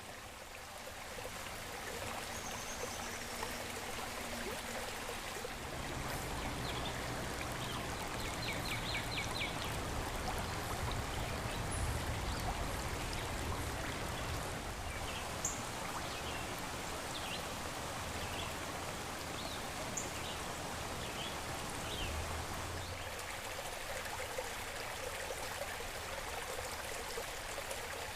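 A creek flowing and rushing steadily, with a few short high chirps scattered over it.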